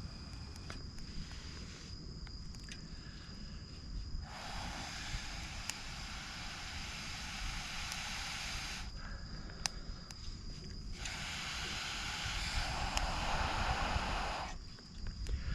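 Two long, steady blows of air into a reluctant twig campfire to coax it into flame, each lasting about four seconds, with a few sharp crackles from the twigs. A steady high insect trill runs behind.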